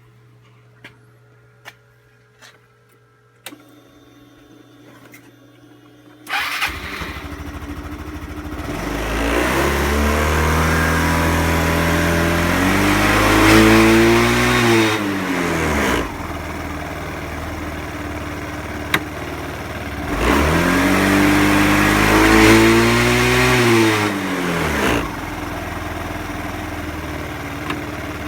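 Yamaha Cygnus X scooter's single-cylinder four-stroke engine starting after a few light clicks, then idling and being revved up and back down twice before settling to a steady idle.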